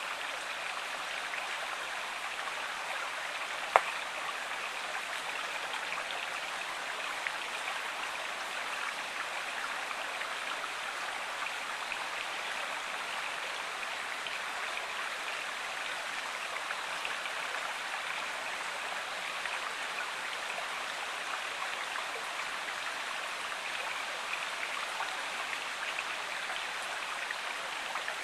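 Flowing river or stream water, a steady rushing babble. A single sharp click stands out about four seconds in.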